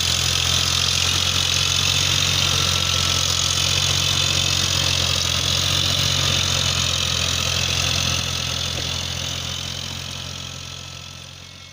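Eicher 557 tractor's diesel engine running steadily, fading out over the last few seconds.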